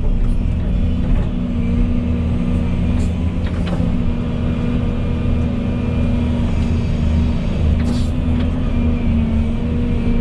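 Volvo EC220E excavator's diesel engine running steadily, working the hydraulics, with a couple of short knocks about a third of the way in and near the end.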